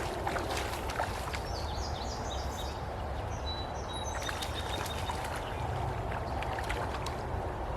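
River water running steadily, with a bird chirping a quick series of short high notes a couple of seconds in.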